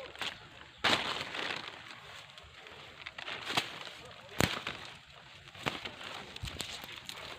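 Leaves and stems rustling with several sharp snaps, the loudest about a second in and again past the middle, as bean pods are picked from the plants by hand.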